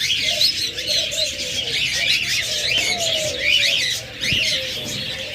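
Many caged birds chirping and chattering in quick, overlapping high calls, with doves cooing low underneath in a steady, wavering drone.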